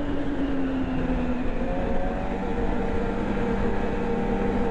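Ski-Doo snowmobile's 600R E-TEC two-stroke twin running under way on the trail, its pitch easing slightly in the first second or so and then holding steady.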